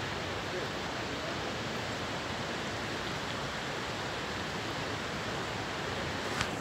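Steady rushing of flowing water, an even hiss with no change in level, with one short click near the end.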